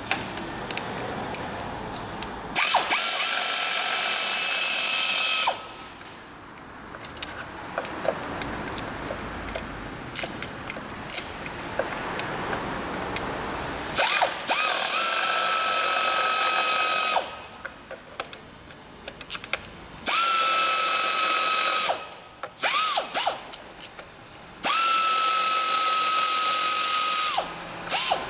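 Electric drill-driver running in four bursts of about three seconds each, each whining up quickly to a steady pitch, with a couple of short blips between the last two and scattered clicks of tools and parts in the gaps: backing out the screws of the engine's PCV valve cover.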